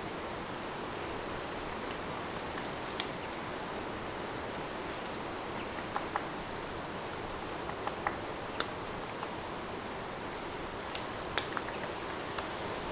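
Steady rain ambience, an even hiss of falling rain, with short high-pitched chirps recurring every second or two and a few scattered sharp clicks.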